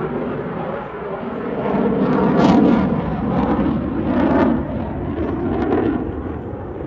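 Aircraft engine noise from a plane flying past, swelling about two and a half seconds in and fading toward the end.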